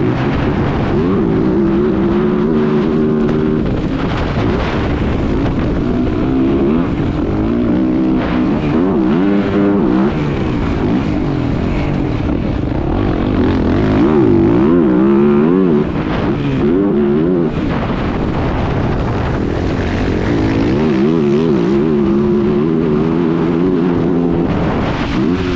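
Motocross bike engine heard from onboard through a lap, revving up and down over and over as the rider works the throttle and shifts through jumps and corners.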